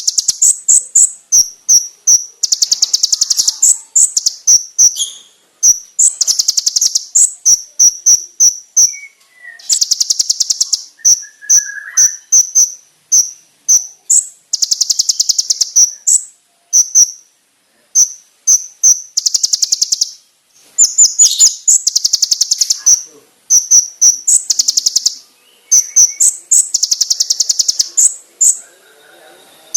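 Konin (kolibri ninja, a sunbird) singing a loud, continuous song: very fast high trills of a second or two at a time, broken by strings of short, sharp, piercing chirps.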